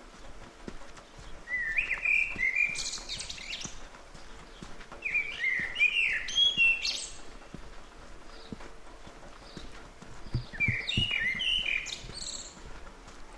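A songbird sings three phrases of about two seconds each, with pauses between them; each phrase has quick chirping notes that slide down and then rise higher at the end. Soft crunching footsteps on the forest floor run beneath.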